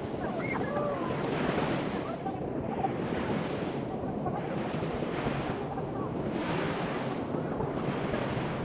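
Ocean surf breaking and washing up the shore in repeated surges every couple of seconds, with wind buffeting the microphone.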